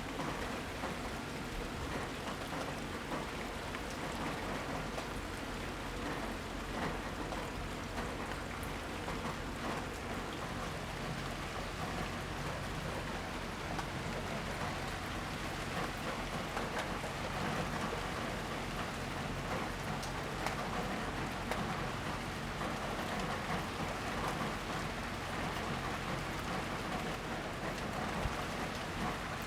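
Steady rain falling, with a dense patter of individual drops hitting surfaces.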